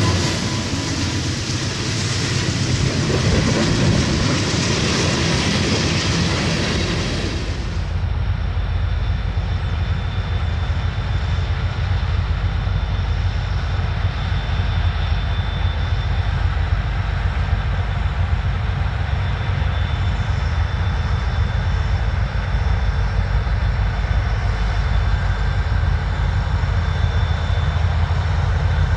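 Train running past with a loud rush of wheel and rail noise. About seven seconds in, the sound changes abruptly to a steady low engine drone with a faint high whine.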